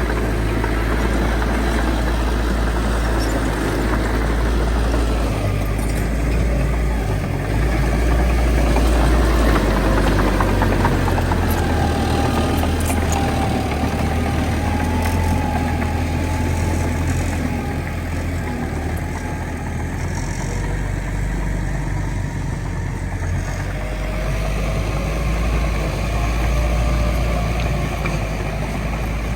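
Heavy diesel machinery running steadily with a deep rumble, from a bulldozer and dump trucks working soil. A faint wavering tone sits above it through the middle of the stretch.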